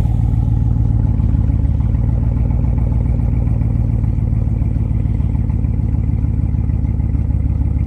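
Chevrolet Silverado Trail Boss's 5.3-litre V8 idling steadily through a muffler-deleted exhaust, a loud, deep, even note. The engine is still cold, so it idles a little louder than usual.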